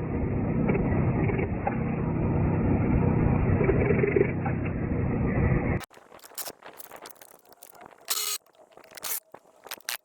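Loud, steady mechanical running noise with a low hum, cutting off abruptly about six seconds in; after it come faint clicks and knocks of handling.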